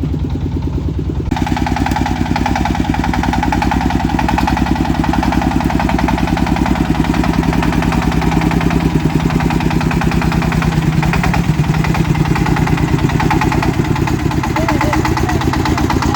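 Engine of a công nông farm truck running steadily with a rapid, even thumping beat. It turns brighter and harsher about a second in.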